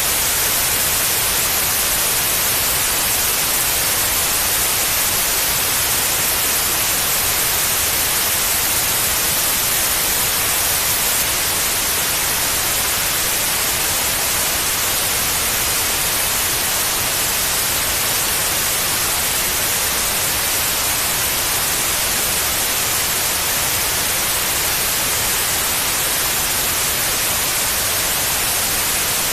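Steady white noise: an even, unbroken hiss, brightest in the high treble, played as a sleep aid for babies.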